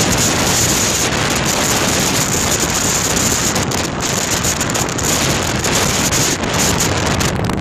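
Wind buffeting the microphone, a loud, steady rushing that covers everything else.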